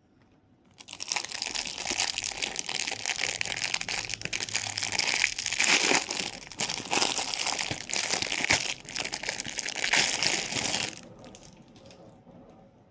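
Crinkly packaging being handled and crumpled close to the microphone: a dense, continuous crinkle that starts about a second in and dies down about two seconds before the end.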